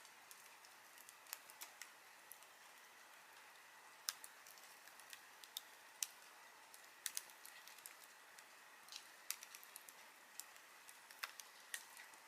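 Wood campfire crackling: scattered sharp pops and snaps, two or three a second at irregular intervals, over a faint steady hiss.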